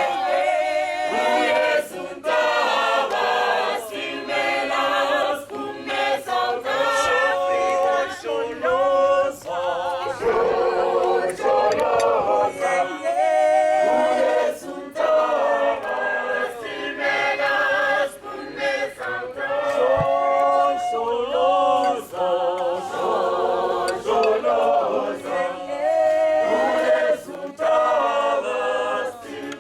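A group of voices singing together unaccompanied, in harmony, with long wavering held notes.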